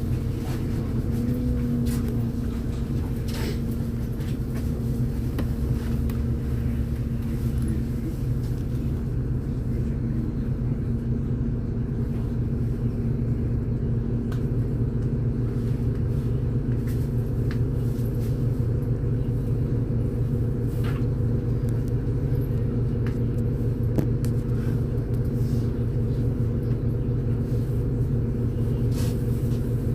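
Cabin sound of a MAZ-203 city bus running: a steady low rumble with a steady hum over it and a few faint clicks.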